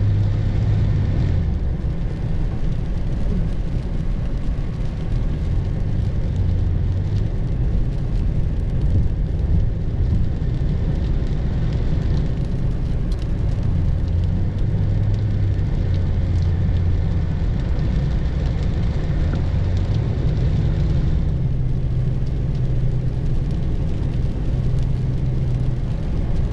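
Steady road and wind rumble inside the cabin of a moving Lexus RX, driving through stormy wind and rain.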